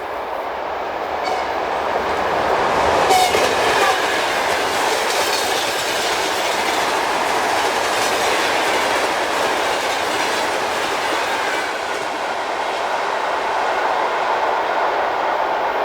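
Electric train passing close by: a steady rolling noise of wheels on rails that builds over the first three seconds, with a sharp click about three seconds in and regular clickety-clack over the rail joints after it.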